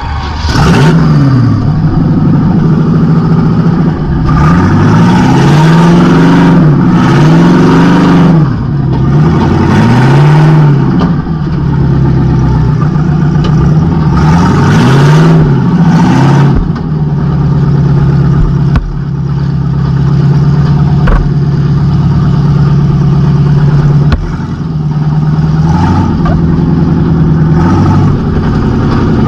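Demolition derby car's engine running loud through open exhaust pipes that stick straight up through the hood. It revs up and down repeatedly in the first half, holds a steady pitch for several seconds, then revs again near the end.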